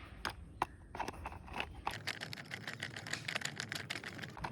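Small screws being driven into the plastic body of a toy car: a couple of sharp clicks, then from about a second in a dense run of rapid scratchy clicking as the screws turn and tighten.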